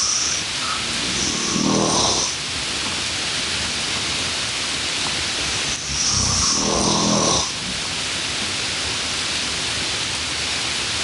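Slow, rhythmic snoring, one rasping breath about every five seconds, over a steady background hiss.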